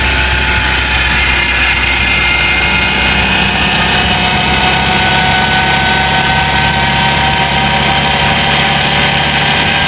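Vehicle engine running steadily at idle, with several high whining tones held over the engine hum; the noise the owner finds suspicious.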